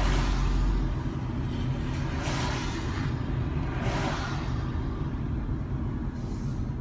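Car driving on a city road: a steady low rumble of engine and tyres, with four short whooshes of traffic going past, at the start, about two seconds in, about four seconds in and near the end.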